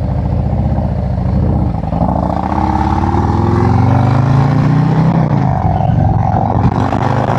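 Harley-Davidson V-twin motorcycle engine running under way. It runs steadily at first, then accelerates from about two seconds in with its pitch rising, and settles near the end.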